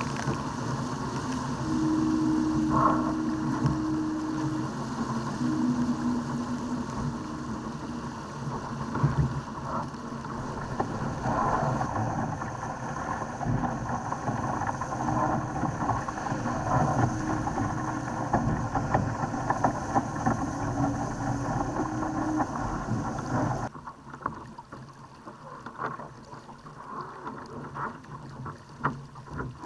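Water rushing and splashing along a Laser dinghy's hull under way in strong wind, with wind buffeting the onboard camera's microphone and a low hum that comes and goes. About 24 s in the sound drops suddenly to a quieter wash broken by sharp splashes.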